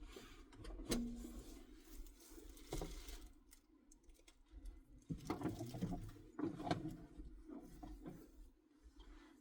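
Handling sounds from a car seat cover being fitted: fabric rustling and being tugged, with a few sharp knocks, the loudest about a second in, and a busier stretch of rustling past the middle.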